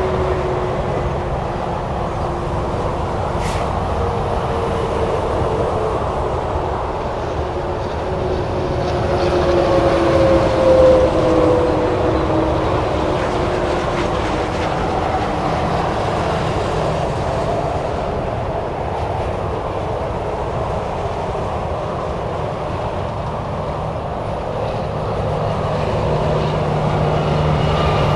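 Steady highway traffic: cars and semi-trucks passing at speed with continuous tyre noise, engine and tyre tones sliding down in pitch as vehicles go by, and a louder pass about ten seconds in.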